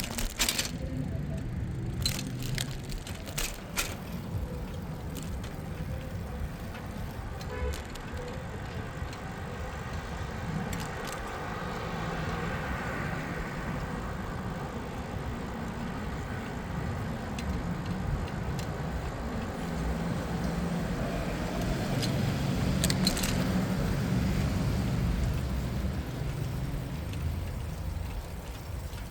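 Street noise heard from a moving bicycle: a steady low rumble of tyres and wind, with a few sharp clicks in the first few seconds. Passing traffic swells and fades, loudest a little past twenty seconds.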